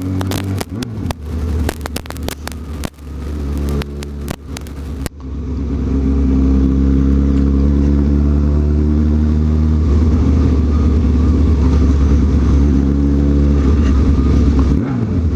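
Honda CB1000R's inline-four engine running under way, heard from the rider's microphone. For the first five seconds the engine note is broken up by crackling wind buffeting on the microphone; after that it runs smooth and loud, rising in pitch, with a quick drop and climb near the end as it shifts gear.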